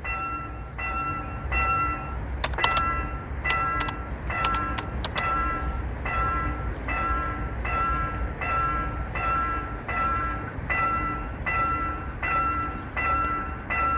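Railway level-crossing warning bell ringing steadily at about one and a half dings a second, over a low rumble. A few sharp clicks come about two to five seconds in.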